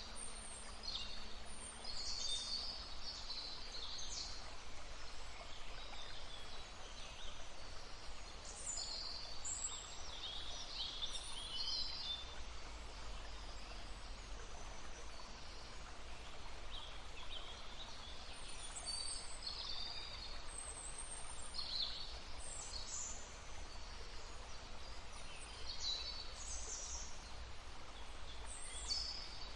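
Several songbirds singing and calling in short high chirps and trills, in bouts with brief pauses between, over the steady sound of a flowing brook.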